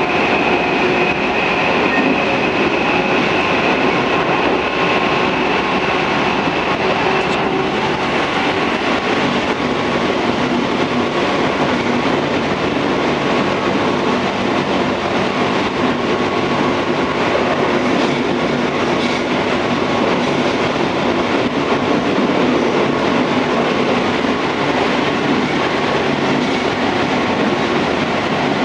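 Tobu 634-series electric train running along the line: a steady rumble and rattle of wheels on the track. A faint high steady tone fades out about seven seconds in.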